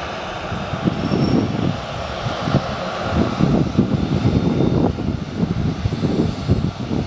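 Boeing 737-800's CFM56-7B jet engines running at taxi power: a steady rushing whine with an uneven low rumble.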